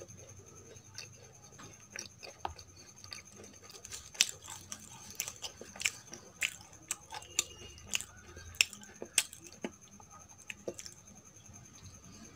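Close-miked chewing of boondi ladoo, a soft, grainy Indian sweet: a string of irregular wet mouth clicks and small smacks, busiest through the middle.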